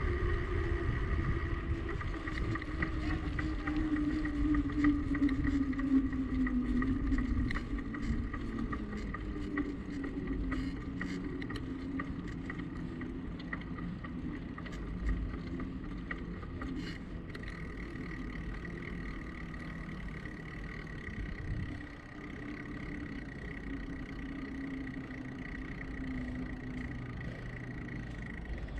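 Bicycle riding noise with wind rumble on the microphone, tyre and road noise and a steady hum whose pitch falls over the first several seconds, with scattered faint clicks.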